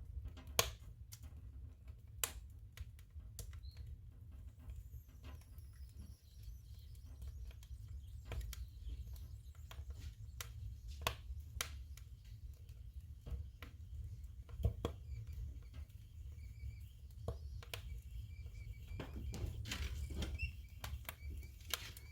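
Firewood burning in a stove: irregular sharp crackles and pops over a steady low rumble, with a faint thin whistle in the last few seconds.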